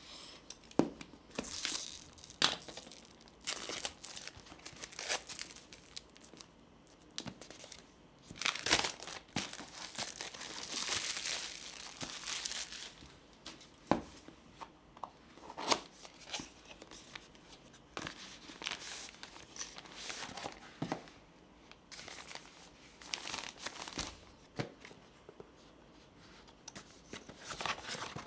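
Unboxing: the product packaging being handled and opened, with plastic and paper crinkling and tearing and scattered clicks and taps, including a longer stretch of rustling about ten seconds in.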